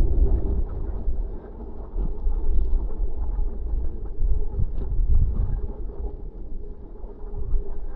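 Wind buffeting the microphone and low rumble from a bicycle being ridden, with a faint steady hum underneath.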